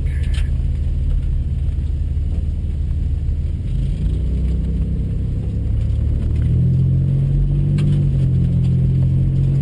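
Drag-racing Mustang engines running at the starting line, their low engine note stepping up in pitch twice, about four seconds in and again about six and a half seconds in.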